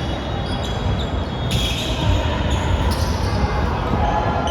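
Basketball game play: a ball bouncing on the court amid players' movement, with several short high squeaks.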